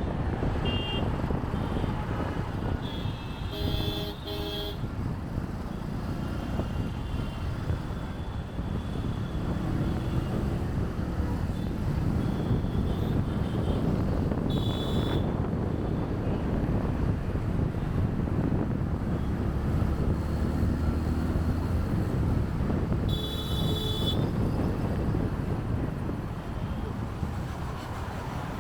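Busy city traffic heard from a moving motorbike: a steady rumble of engines and road noise, with vehicle horns honking several times. The horns are loudest about four seconds in, around fifteen seconds and around twenty-three seconds.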